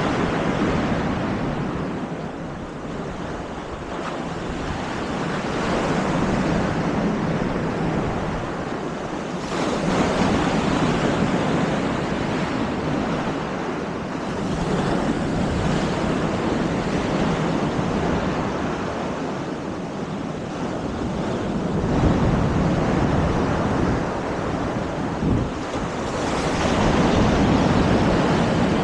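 Baltic Sea surf breaking along the shore, the wash swelling and fading every few seconds, with wind buffeting the microphone.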